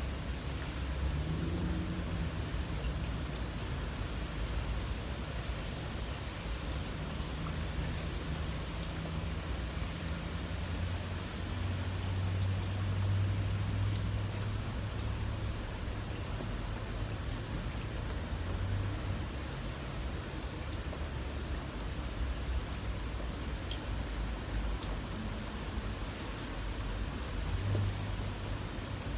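Insects chirping in one steady, unbroken high trill, with a second, higher and pulsing insect call joining about halfway through, over a low rumble.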